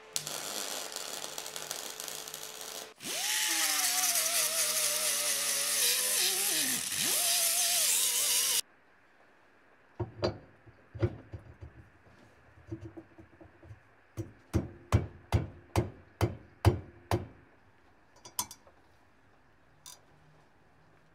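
A power tool motor running under load, its pitch sagging and dipping once before it cuts off suddenly. It is followed by a series of about a dozen sharp knocks, roughly two a second.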